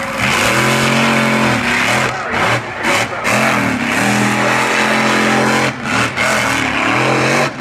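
Monster truck's supercharged V8 engine revving hard during a run, the revs climbing and holding, then dropping briefly several times as the throttle is lifted and reapplied.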